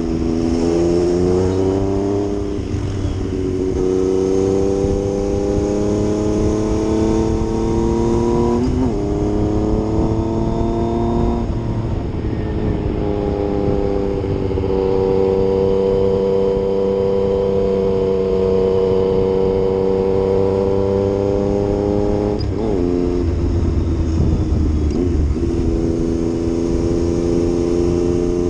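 Yamaha MT-09 three-cylinder motorcycle engine under way, its pitch climbing steadily as it pulls through the gears. The pitch drops sharply at gear changes, about 9 seconds in and again near 23 seconds.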